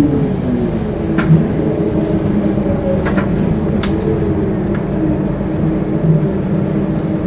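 Scania K230UB bus diesel engine running steadily at low revs after easing off from hard pulling. A few sharp rattles and clicks from the bus body come through about a second in and again around three and four seconds.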